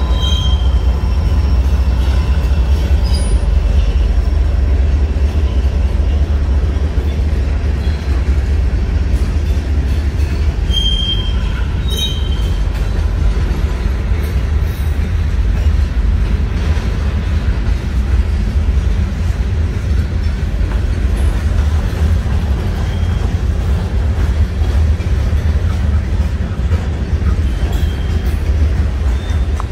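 Freight train rolling past close by: a steady, heavy rumble of wheels on rail, with a few brief high wheel squeals now and then.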